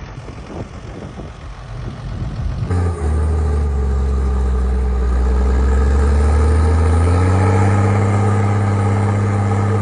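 ZTS 16245 tractor's six-cylinder diesel engine running. A rougher, uneven stretch gives way about three seconds in to a steady low drone, which steps up to a higher engine speed about seven seconds in and holds there.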